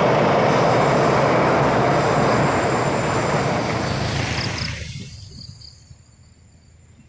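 Train crossing a railway bridge: a loud, steady rumble of wheels on the rails that dies away quickly about five seconds in as the train passes.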